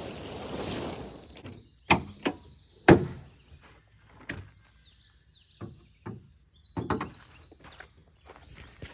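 A series of sharp knocks and thuds, several close together, the loudest about three seconds in, with birds chirping faintly in the background. Wind noise is heard briefly at the start.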